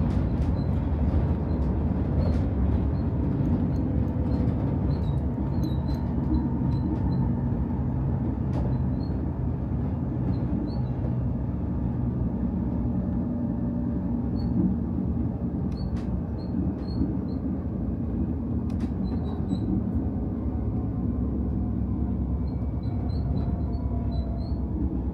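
Stockholm commuter train running, heard from inside the carriage: a steady rumble of wheels on the track with a faint electric hum, and light squeaks and a few clicks.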